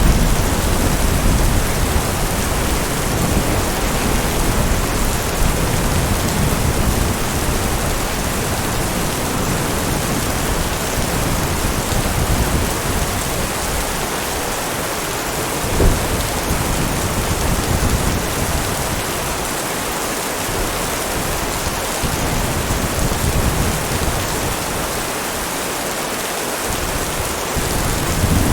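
Heavy rain falling steadily, with thunder rumbling low that swells and fades and one short sharp crack about halfway through.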